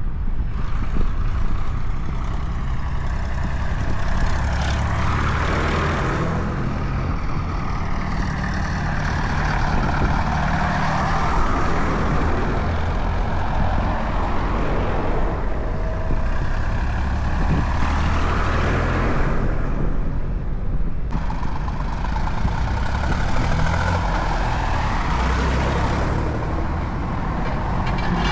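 Tractors driving by on a road one after another. Their diesel engines drone low and steady, and the noise swells and fades several times as each one passes.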